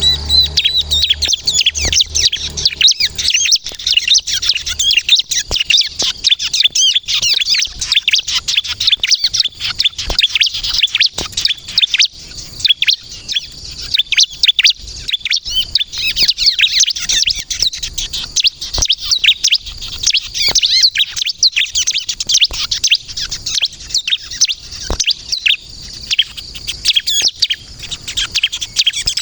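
Bar-winged prinia (ciblek kristal) in full, vigorous song: an unbroken stream of rapid, high-pitched chirps and trills with a few sharp clicks mixed in.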